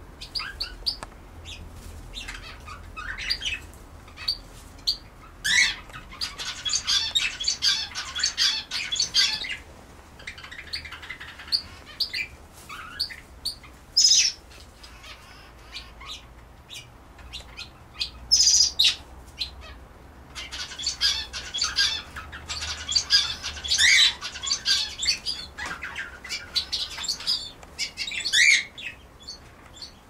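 Small aviary birds chirping and twittering in short, high calls, with two longer spells of busy twittering.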